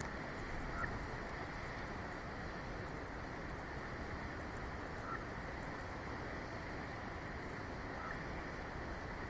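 Steady wind noise on an outdoor nest-cam microphone in a snowstorm, with three faint short high sounds about three seconds apart.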